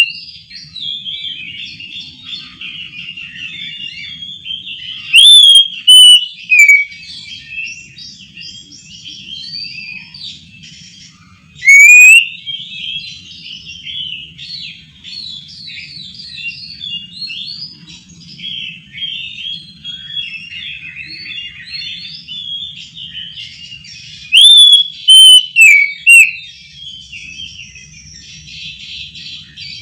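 Oriental magpie-robin (kacer) singing a continuous, varied warbling song, broken by loud rising whistles about five seconds in, around twelve seconds in, and in a cluster near the end.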